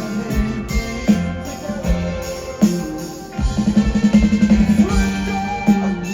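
Live rock band playing an instrumental passage, with sustained keyboard or guitar tones over a steady kick drum and a quick run of repeated notes in the middle.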